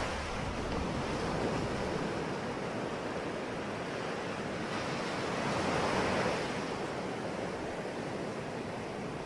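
Ocean waves breaking on the shore, a steady rush of surf that swells about halfway through and then eases.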